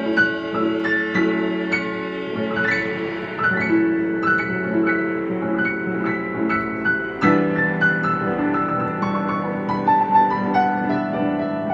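Solo piano playing: a melody of single struck notes over held chords.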